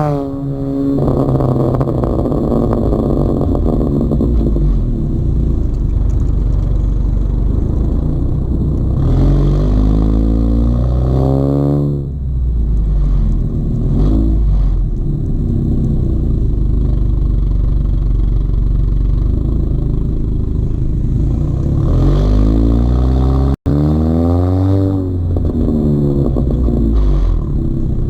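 Exhaust of a Honda Accord 1.5T turbo four-cylinder with a catless PRL downpipe, PRL frontpipe and Thermal R&D exhaust, accelerating under load: the engine note climbs in pitch and falls back at each shift, several times over. It cuts off for an instant about two-thirds of the way through.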